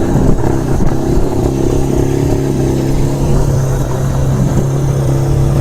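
Suzuki RE5's 497 cc Wankel rotary engine running steadily at an even pitch.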